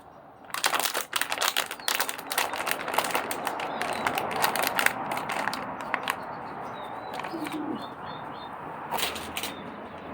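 A run of sharp clicks, knocks and rustling, then small birds chirping faintly over a low background noise in the second half.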